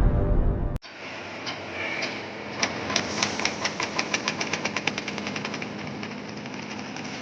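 Music cuts off about a second in, followed by a hydraulic hopper concrete mixer's engine running steadily. From about two to five seconds in, a rapid, even clatter of several ticks a second runs over the engine sound.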